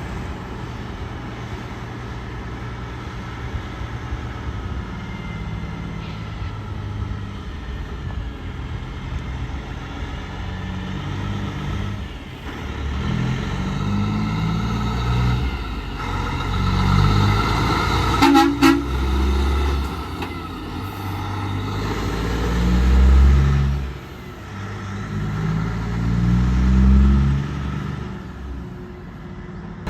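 Heavy trucks passing on the road, their engine and tyre rumble swelling and fading as each goes by. About two-thirds of the way through, a horn sounds in a quick run of short toots.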